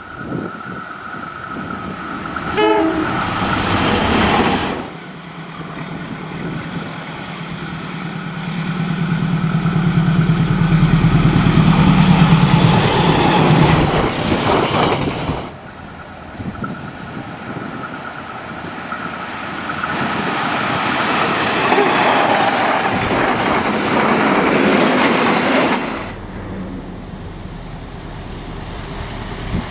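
KAI diesel-electric locomotives hauling passenger trains past at speed: engine drone and the rumble of coaches over the rails, with a train horn sounding. The sound changes abruptly about five, fifteen and twenty-six seconds in, where separate passing trains are cut together.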